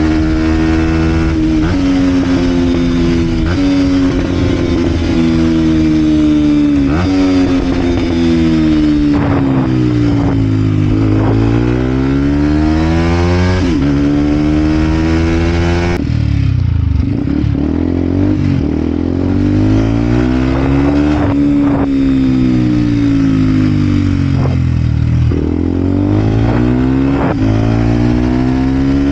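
Vent Derapage 125 four-stroke motorcycle with a full Scalvini exhaust being ridden. The engine pitch climbs in steps with sharp drops at each gear change, then falls away as it slows and rises again, several times over.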